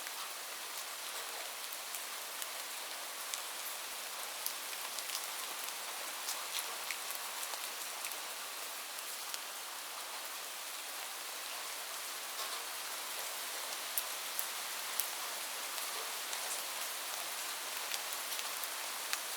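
Steady rain falling, an even hiss with many scattered sharp drops ticking on a surface.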